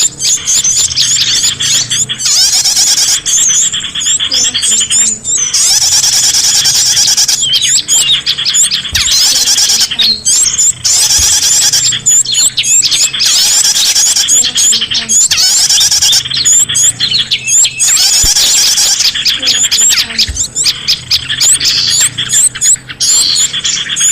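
A dense, loud chorus of many small birds chirping and twittering over one another, with short breaks every few seconds. It is a recorded bird-lure mix of noisy small-bird calls, played to draw in small birds.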